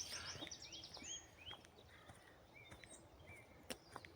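Faint songbird calls: a quick run of short high chirps that slows into a few separate rising notes, with two sharp clicks near the end.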